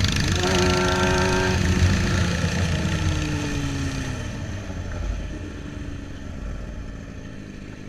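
Motorcycle riding in traffic, engine and road noise fading. About half a second in a steady pitched tone is held for just over a second, and a few seconds later a falling pitch is heard as a vehicle passes.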